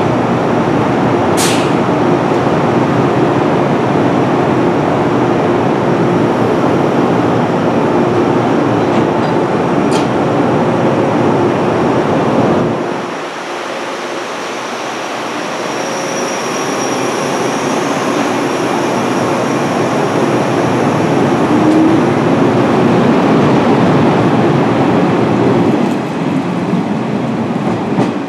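A JR West 103 series electric train running, heard from between cars, with a steady rumble of wheels and traction motors. About 13 s in, the deep rumble drops away suddenly, then the running sound builds again.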